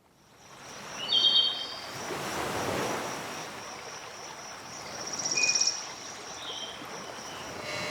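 Birds calling over steady outdoor ambience. A short call of several high notes comes about a second in, and a fast, high trill about five seconds in is the loudest sound. A thin, steady high whine runs underneath.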